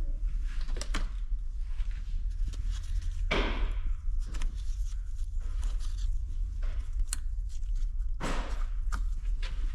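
Scattered clicks and knocks of parts and tools being handled, with two short scraping rushes about three and eight seconds in, over a steady low hum.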